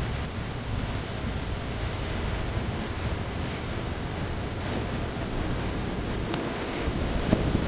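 Wind buffeting the microphone: a steady rushing noise with an uneven low rumble, and a short knock near the end.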